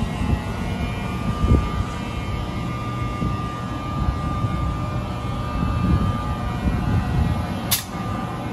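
NJ Transit electric train running through the station: a steady low rumble with a thin high whine over it. A single sharp click near the end.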